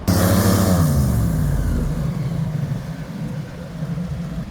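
An engine cuts in suddenly and loud, its pitch falling over about a second and a half and then holding steady as it slowly fades.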